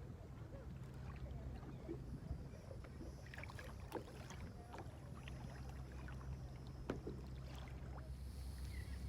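Faint sounds of a kayak out on the water: scattered small splashes and knocks from paddling over a steady low rumble.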